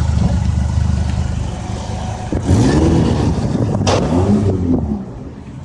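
Car engine running steadily, then revving up and back down twice, with a sharp click between the two revs. The sound drops away near the end.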